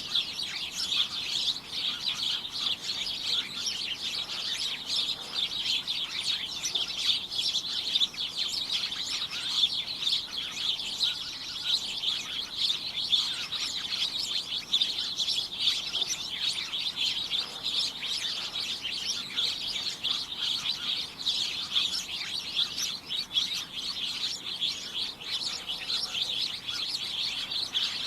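A flock of small birds chirping and tweeting together in a dense, continuous chatter of overlapping short high chirps.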